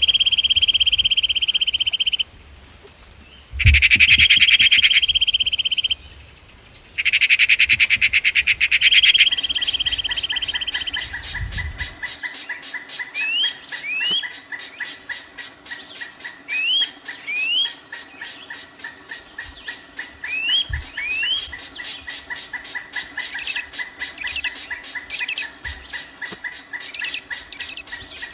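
Birds chirping with short rising calls over a dense, even high pulsing. The first nine seconds hold a loud steady high whine and two loud rapid buzzing bursts.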